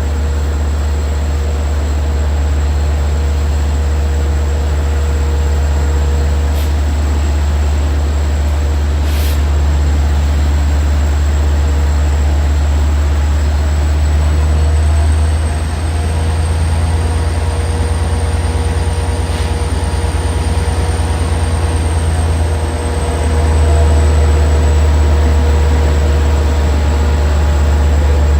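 Long Island Rail Road train at a station platform: a steady low rumble with a thin high whine that rises a little around the middle and falls back, and a few sharp clicks.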